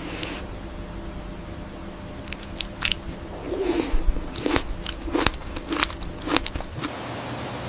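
Crisp biting and crunching: a quick run of about a dozen sharp crunches in the middle of the stretch, then they stop.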